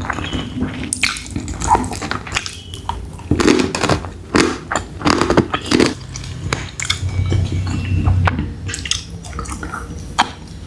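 A person chewing and biting a mouthful of food, with wet mouth sounds and many short, irregular clicks.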